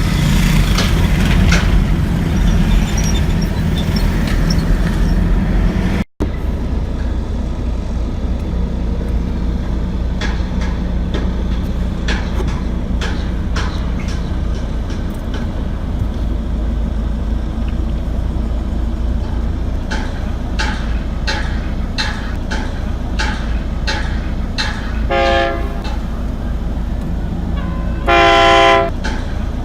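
A train running past with a steady heavy rumble and irregular clacks of wheels over the rails. Near the end its horn sounds twice, a short toot and then a longer, louder blast.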